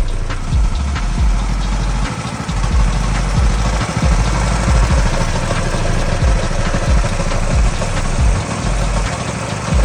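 Small single-cylinder mini bike engine running.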